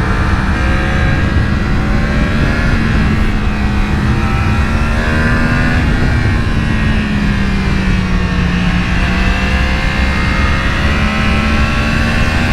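Sport motorcycle engine heard from the rider's position, running at fairly steady revs while riding, its pitch easing up and down a little as the throttle changes through the bends.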